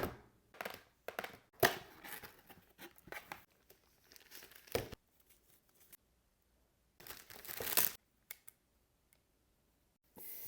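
Packaging being torn and crinkled in irregular bursts, with a short thump about halfway through and a longer stretch of rustling a little after.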